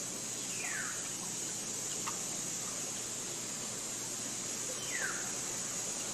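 Forest ambience: a bird gives two short whistled calls, each falling steeply in pitch, about four seconds apart, over a steady high hiss.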